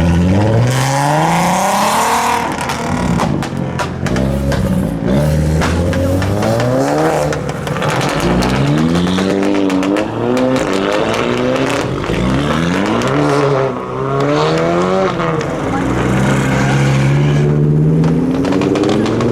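Car engine revved hard over and over, its pitch climbing and dropping repeatedly as it accelerates and backs off.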